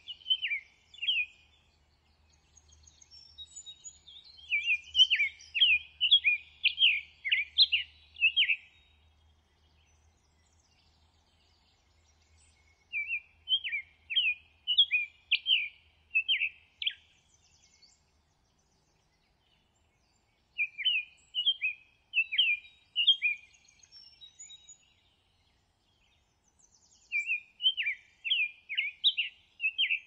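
A songbird singing in repeated phrases. Each phrase is a quick run of sharp chirping notes lasting about three to four seconds, and the phrases are separated by pauses of several seconds.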